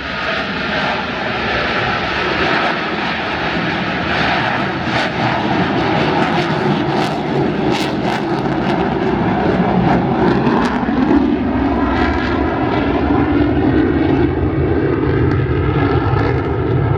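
Loud, steady jet engine noise from military jets flying over during an airshow display, swelling a little in the second half.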